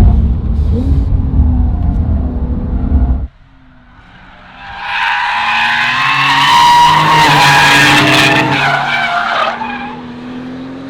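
Brabus 820 Porsche 911 Turbo S's twin-turbo flat-six running with a low rumble, then an abrupt cut about three seconds in. After the cut, tyres squeal over the engine for about five seconds as the car drifts, then fade near the end.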